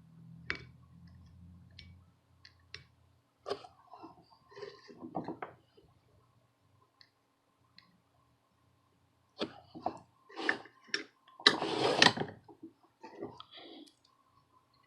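Scattered small clicks and taps of hand tools working on a circuit board, with a louder burst of noise lasting under a second about eleven and a half seconds in.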